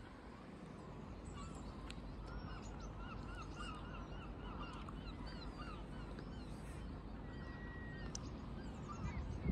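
A bird calling in a quick series of short, hooked notes, about four a second, for around four seconds. Fainter high chirps from other small birds sound over a low outdoor rumble.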